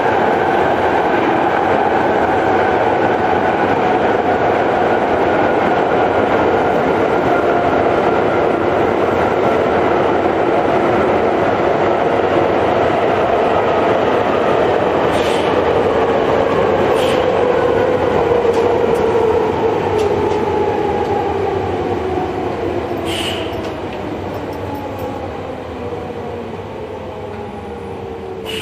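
Tokyo Metro 5000 series subway car heard from inside while running, its motor and gear whine falling steadily in pitch as the train slows. A few sharp knocks from the wheels come in the second half, and the noise eases off towards the end.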